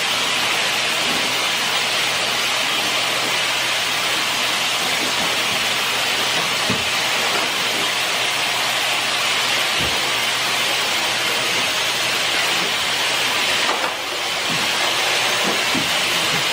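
A loud, steady hiss of noise with a faint low hum under it, starting abruptly and dipping briefly near the end.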